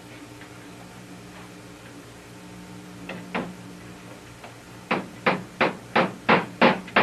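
Hammer striking nails into the ribs of a cedar strip canoe: two light taps about three seconds in, then steady, evenly spaced blows about three a second from about five seconds in.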